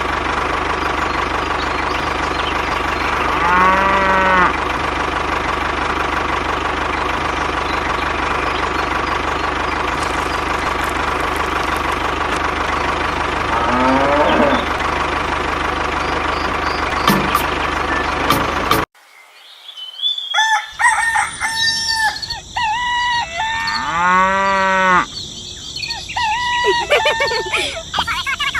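Cows mooing twice over a steady background hum. After a sudden cut about two-thirds through, chickens cluck with another moo among them.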